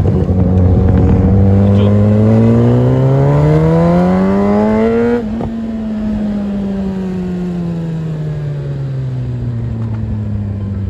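Kawasaki ZX-10R inline-four engine pulling hard, its pitch rising steadily for about four seconds. About five seconds in the throttle is shut abruptly, and the engine note then falls slowly as the bike slows.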